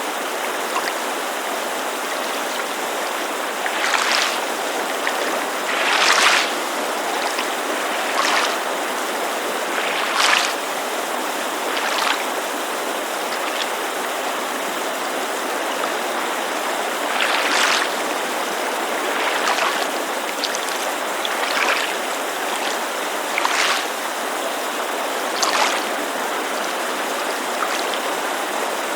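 Small waves lapping against a lakeshore in soft splashes about every two seconds, over the steady rush of a mountain creek.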